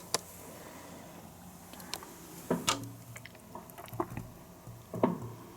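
Fireworks going off: about six sharp bangs at irregular intervals, with smaller crackles between them.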